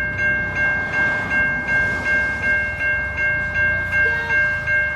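Railway level crossing warning bell ringing steadily, about three strokes a second, at the same pitch throughout.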